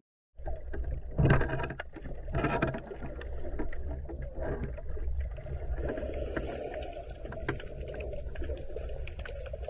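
Ocean water noise with a steady low rumble and scattered sharp clicks, swelling louder about one and two and a half seconds in.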